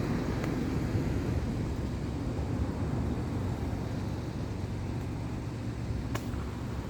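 Low, steady rumble of an Airbus A320's jet engines during its landing, mixed with wind buffeting the microphone, and a short click near the end.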